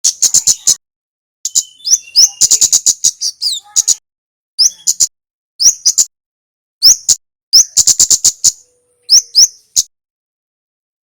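Kemade songbird calling: fast trains of sharp, high ticking notes, mixed with short upward-sweeping chips, in bursts separated by brief pauses.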